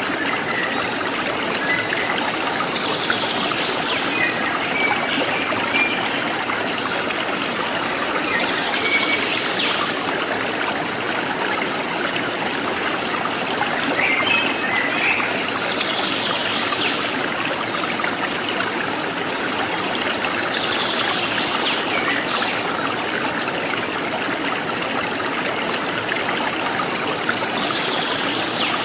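Steady babbling of a jungle stream, with wild birds giving short high calls every few seconds.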